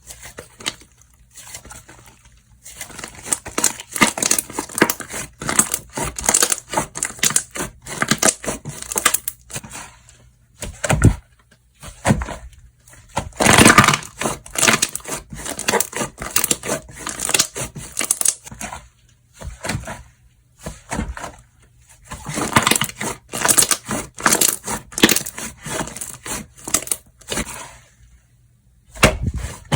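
Slime being squeezed, pressed and stretched by hand, giving dense crackling and popping in several stretches with short pauses between them.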